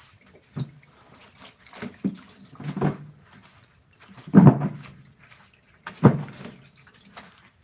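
About five dull knocks or thuds, irregularly spaced, with the loudest about halfway through.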